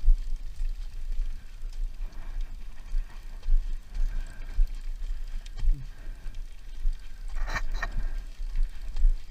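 Dirt-bike riding heard through an action camera: a steady, gusting low rumble of wind on the microphone, with a couple of short engine sounds that fall in pitch, about six and seven and a half seconds in.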